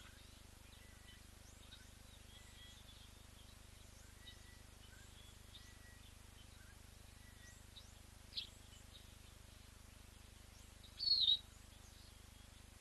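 Faint outdoor ambience with scattered distant bird chirps, then a brief sharp high bird call about eight seconds in and a louder, slightly longer high call about eleven seconds in.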